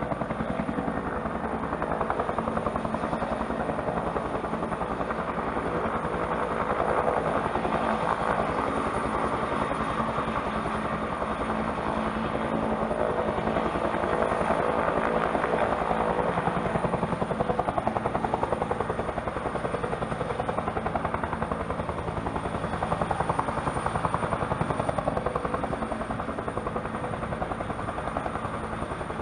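Bell helicopter's turbine engine and main rotor running steadily, a fast even blade chop with a thin high whine above it.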